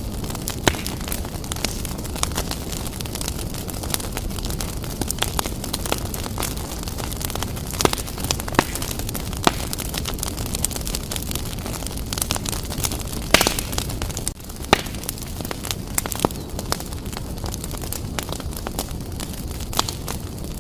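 Wood fire blazing in a fireplace: a steady low rumble of flames with frequent, irregular sharp crackles and pops, one louder pop about two-thirds of the way through.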